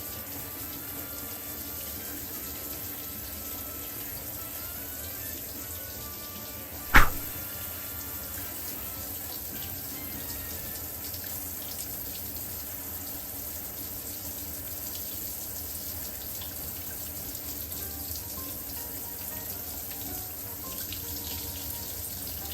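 Tap water running steadily into a sink, with one sharp knock about seven seconds in.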